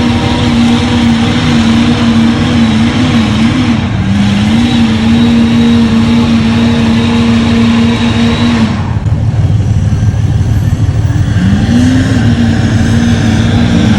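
Big monster truck engine held at high revs, its pitch wavering slightly. It eases off about nine seconds in, then revs up again a couple of seconds later with the pitch climbing and dipping.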